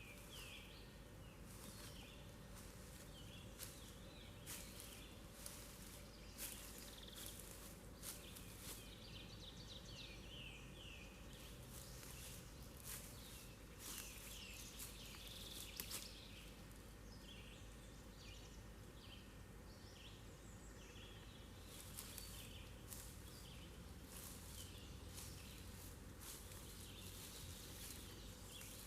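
Faint outdoor ambience of birdsong: short chirped phrases repeated throughout, with scattered soft clicks.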